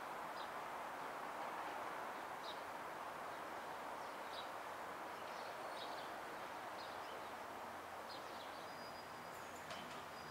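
Scattered bird chirps over a steady faint rush of a Northern Ireland Railways CAF 3000 class diesel unit rolling slowly in to stop. A thin, steady, high squeal from its brakes sets in near the end.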